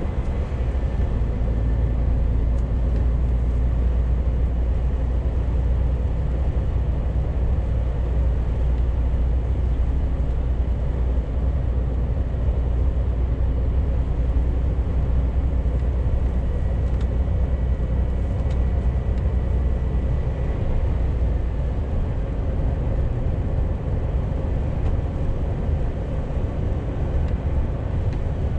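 Scania G410 CNG truck on the move, heard from the driving position: its 12.7-litre methane-fuelled engine and tyres make a steady deep rumble with a faint whine above it. The deepest part of the drone loosens about three-quarters of the way through.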